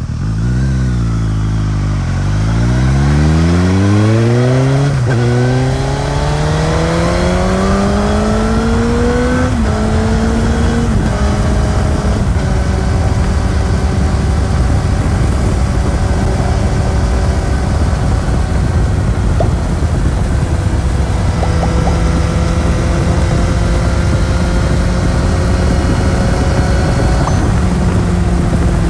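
Suzuki GSX-S1000 inline-four engine through its stock exhaust. The revs drop for about two seconds, then climb steadily under acceleration with brief breaks around five and ten seconds in. After that the engine holds a steady cruising speed.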